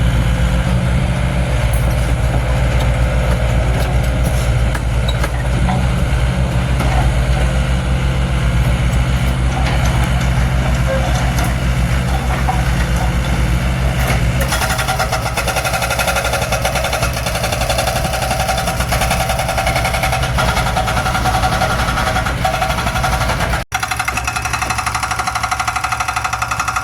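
Mini excavator's diesel engine running steadily. About halfway through, a higher whine joins in over the engine, and the sound cuts out for an instant near the end.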